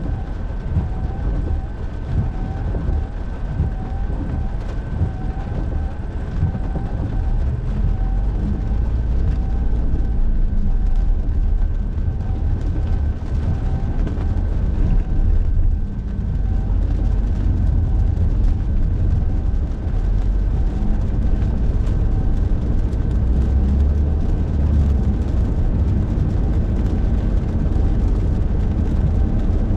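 Car cabin sound at highway speed: a steady low rumble of tyres and engine on wet road. Over it run a faint steady whine and a faint small chirp repeating a little under twice a second.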